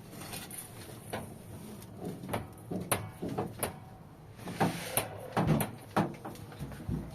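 Irregular knocks and clatters of objects being handled, getting louder and busier about halfway through.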